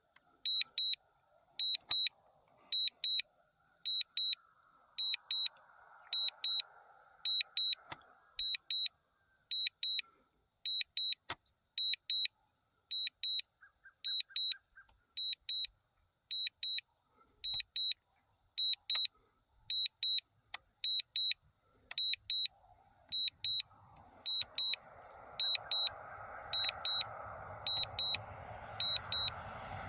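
Low-battery alarm from the DJI Mini 4K drone's controller or flight app, a high double beep repeating about once a second: the battery is critically low. In the last few seconds a rush of noise swells up under the beeps.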